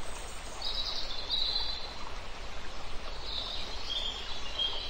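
Outdoor field ambience: a steady hiss with small birds chirping high, in two short spells.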